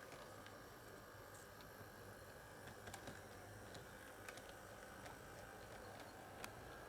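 Faint steady electric hum of an HO-scale model locomotive running on track, with scattered light clicks from the wheels over rail joints.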